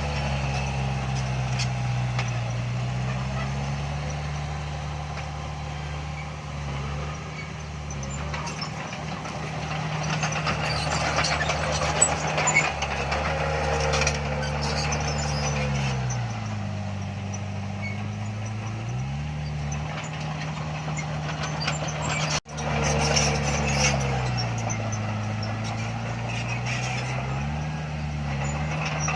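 Heavy diesel earthmoving machinery running steadily, with scattered clanking and rattling over the engine. The engine note sags for a few seconds and recovers twice, about halfway through and again near the end.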